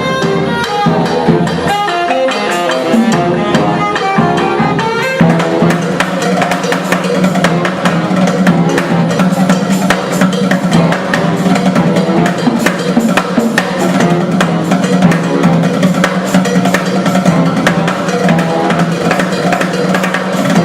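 Live band playing: a pitched melodic line for about the first five seconds, then drums come in with a busy, dense beat over a steady low bass.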